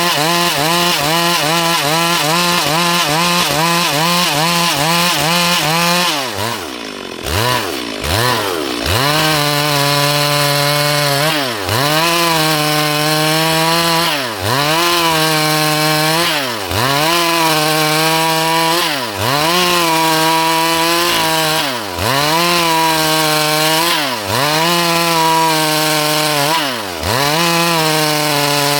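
Stihl MS 382 two-stroke chainsaw running at high revs, cutting into dry wood. From about six seconds in, the revs drop briefly and climb straight back up, again and again, roughly every two and a half seconds.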